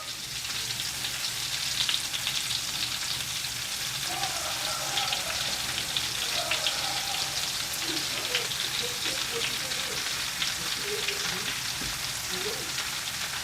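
Potato planks frying in a pan of hot butter and oil: a steady sizzle with many small crackles and pops.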